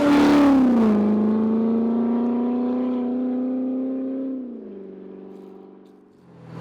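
C7 Corvette's 6.2-litre V8 through an MBRP axle-back exhaust, a steady engine note whose pitch drops twice, about a second in and again about four and a half seconds in. It fades away near the end.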